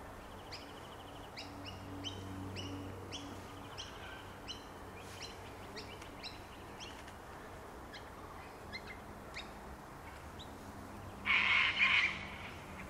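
Wild birds chirping in the background: short, high chirps about two a second, growing sparser later. About eleven seconds in comes a louder, noisier two-part burst, the loudest sound here.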